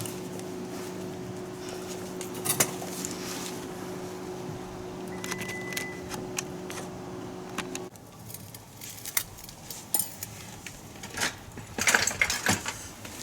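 Metal tools and parts clinking and clattering by hand, in scattered sharp knocks that come thicker near the end. A steady low hum runs beneath them and cuts off suddenly about eight seconds in.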